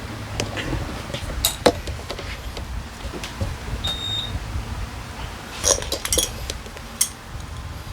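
Light metallic clicks and clinks of tools and small carburetor parts being handled, irregular, with a small cluster of taps about six seconds in, over a low steady hum.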